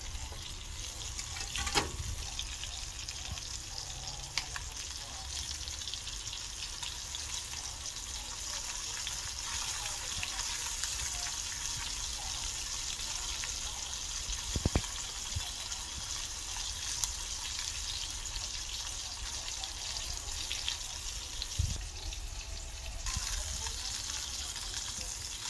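Flour-coated shrimp frying in olive oil: a steady sizzle with fine crackling, broken by a few sharp clicks, the loudest about halfway through.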